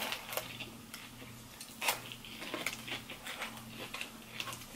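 Chewing crunchy fried okra: scattered soft crunches and mouth clicks, with one sharper crunch about two seconds in, over a faint steady low hum.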